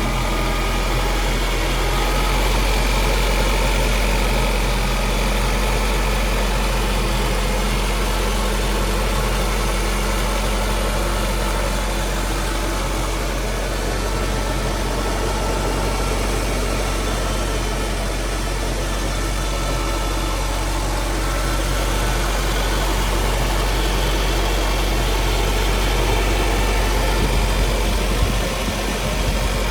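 Citroën DS23ie's fuel-injected four-cylinder engine idling steadily, still warming up after a cold start.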